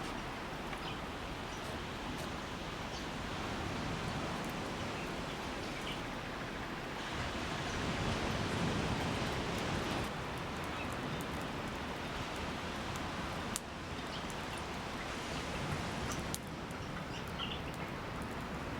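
Steady rush of ocean surf on the beach, swelling for a few seconds about a third of the way in, with faint scattered crackles from a campfire.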